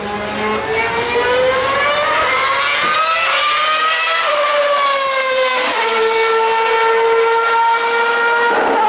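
Formula One car's 2.4-litre V8 engine running at high revs: the note climbs steadily for about four seconds, falls away, then holds one steady high pitch to the end.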